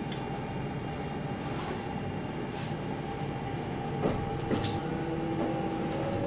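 Kintetsu 1031-series electric train running at speed, heard from inside the car: steady rumbling wheel-and-rail noise with a few rail-joint clicks about four seconds in, then a faint motor whine rising in pitch near the end.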